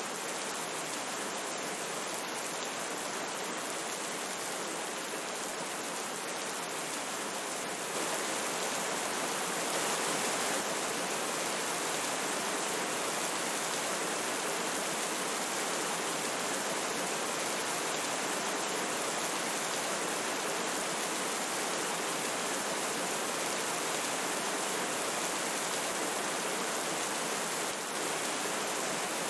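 A river flowing steadily with rain falling, an even rush of water that grows slightly louder about eight seconds in.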